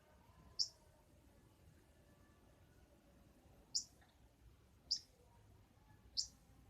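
A young bird giving single short, high chirps, four in all at uneven gaps, each a quick downward slip in pitch: a juvenile learning to sing.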